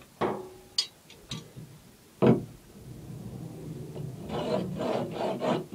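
Drywall being cut by hand: a few separate rasping strokes, then a quicker run of strokes in the second half.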